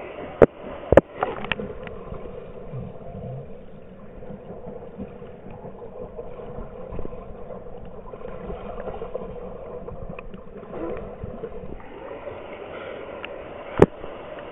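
Waterfall: a steady rush of falling water, with a few sharp knocks about half a second in, about a second in, and again near the end.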